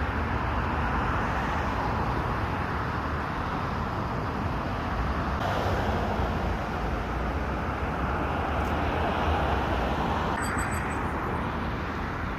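Steady rumble of a car driving, road and engine noise at an even level with no separate events.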